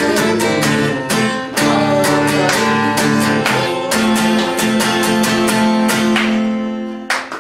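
Acoustic guitar strumming chords in the instrumental close of a self-accompanied song, then a last chord that rings out and fades shortly before the end.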